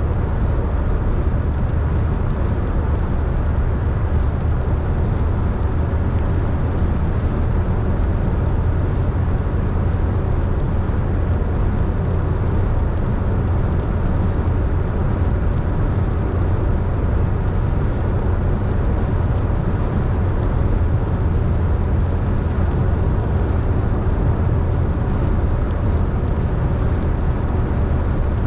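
A car driving at a steady pace: a constant low rumble of engine and tyre noise with an even hiss above it, unchanging throughout.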